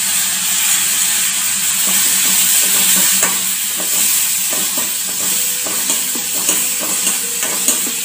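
Chopped tomatoes sizzling steadily in hot ghee and oil in a steel kadai, stirred with a steel spoon that scrapes and taps against the pan over and over.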